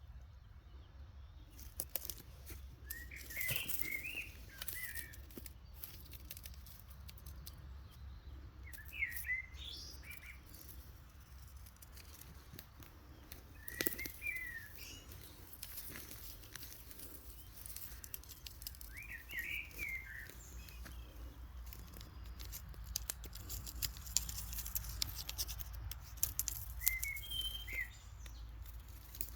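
A songbird repeats a short warbling phrase about every five seconds, five times in all. Scattered rustling and clicks run underneath, thickening near the end.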